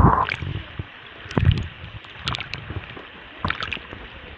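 Water splashing and sloshing in a cenote pool, with scattered drips and small splashes and one heavier slosh about a second and a half in, after a loud rushing noise cuts off at the very start.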